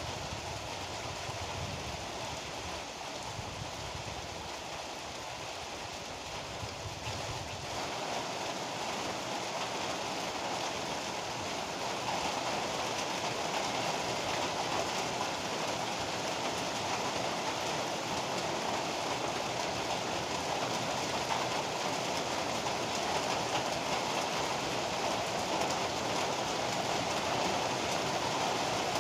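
Heavy rain falling steadily as a dense, even hiss. A low rumble sits under it for the first several seconds and then fades, and the rain grows a little louder about eight seconds in and again a few seconds later.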